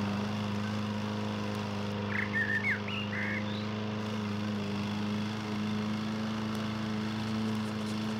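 A steady low hum with a brief run of bird chirps about two seconds in: a few quick rising and falling notes over about a second.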